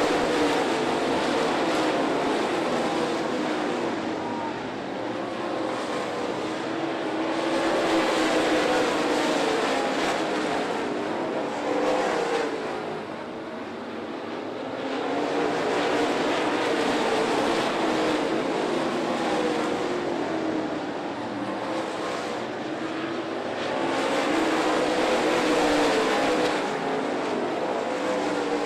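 Dirt late model race cars running laps, the pack of V8 engines swelling as the cars come by and fading as they go down the far side of the track, over and over, with engine pitch rising and falling as drivers get on and off the throttle through the corners.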